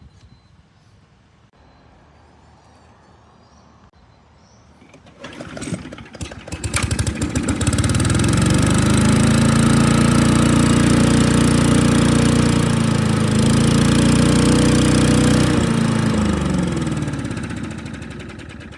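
Rover Powermaster push mower's Briggs & Stratton engine starting about five seconds in, catching within a second or two and running steadily at speed. Near the end it slows and dies away.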